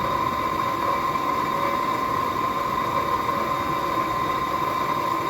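Forge running steadily: a constant rushing noise with a steady high hum.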